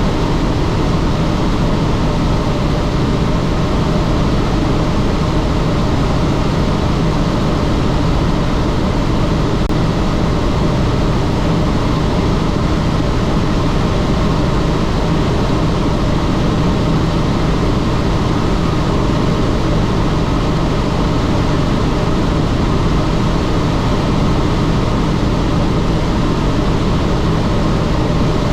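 Helicopter in flight: steady, loud rotor and engine noise with a constant low hum beneath it.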